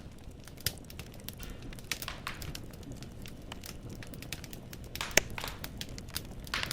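Wood fire in a fireplace crackling, logs popping in irregular sharp snaps over a low steady rumble of flame, with one louder pop about five seconds in.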